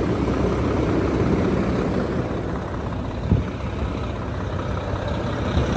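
Mack MP7 inline-six diesel engine of a dump truck idling steadily, with one short thump about three seconds in.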